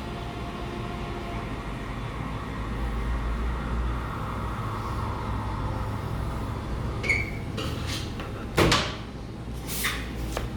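Café room noise: a steady low hum, then a handful of sharp knocks and clinks from about seven seconds in, the loudest at about eight and a half seconds.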